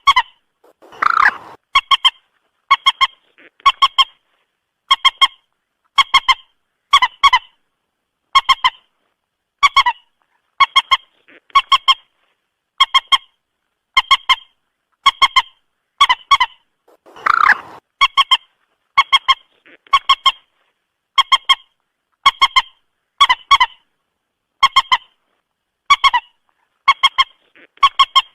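Common moorhen calling in a long series of short, abrupt honking notes, about one call a second, with a couple of longer, harsher calls among them.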